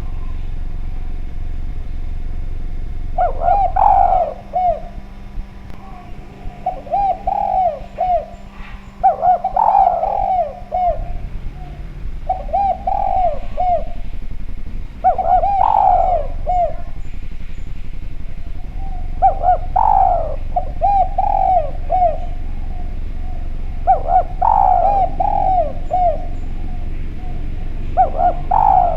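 Spotted dove (derkuku/tekukur) cooing: a phrase of a strong first coo followed by several shorter coos, repeated about every three to four seconds from about three seconds in. A low rumble runs underneath.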